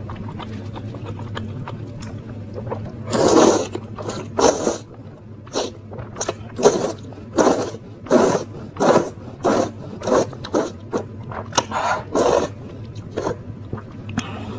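Close-miked eating of spicy instant noodles with toppings: a run of short, loud mouth sounds about one every half second to a second, starting about three seconds in and stopping shortly before the end.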